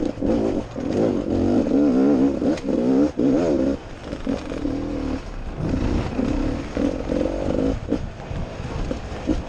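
Enduro dirt bike engine heard from the onboard camera, its pitch rising and falling quickly under constant throttle work, then running lower and more broken from about four seconds in. Scattered knocks and clatter from the bike over rough ground.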